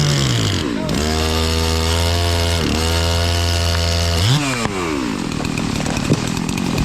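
Two-stroke chainsaw engine running at a steady speed. Its note dips briefly twice, then swings up and back down about four seconds in, after which it turns into a rougher, noisier sound.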